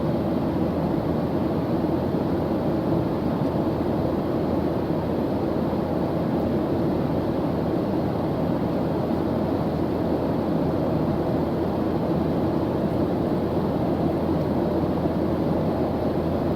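Steady airliner engine drone heard from inside the cabin in cruise: an even, low rushing hum with no changes.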